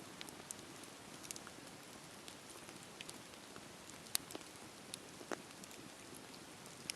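Campfire crackling: a steady soft hiss of burning wood with scattered sharp pops and snaps, the loudest about four seconds in.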